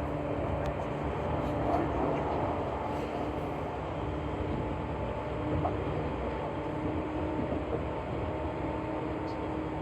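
Seibu New 2000 series electric train running, heard from inside the passenger car: a steady rumble of wheels on rail with faint steady hum tones and a few light clicks.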